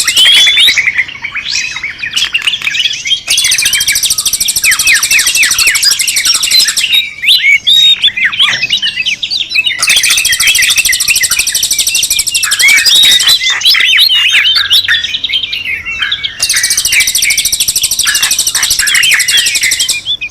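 Bird-lure recording of many small birds chirping and twittering at once, a busy, noisy chorus. Three times, a rapid, very high trill joins in for a few seconds.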